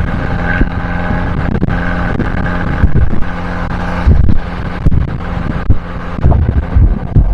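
Abarth 595C's 1.4-litre turbocharged four-cylinder running through an Akrapovic exhaust while driving, a steady exhaust note at fairly constant engine speed. Short low thumps come and go through it.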